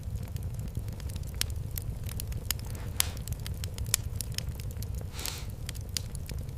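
Wood fire in a fireplace crackling: irregular sharp pops and snaps over a steady low rumble of the flames, with a brief hiss a little after five seconds in.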